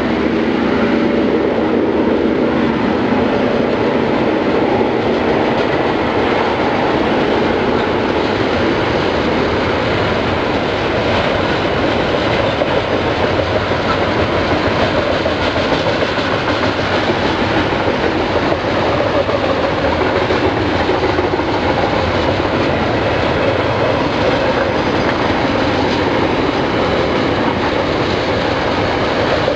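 Container wagons of a KiwiRail freight train rolling past. Their wheels keep up a steady, loud clatter on the rails.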